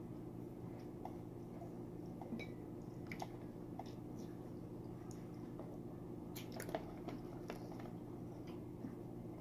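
A person chewing sushi: soft wet mouth sounds and light smacks, the sharpest a little past halfway, over a steady low hum.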